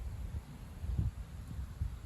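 Strong wind buffeting the microphone: a low, uneven rumble that swells and fades in gusts, loudest about a second in.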